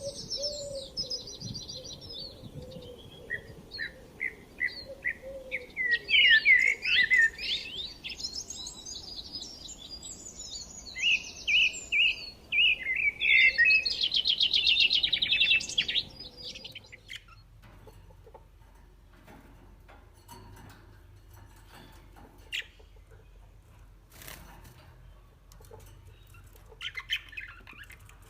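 Small birds chirping and trilling, several rapid overlapping calls high in pitch, busy for about the first sixteen seconds. It then cuts to a much quieter stretch with a few scattered clicks and a brief faint burst of chirps near the end.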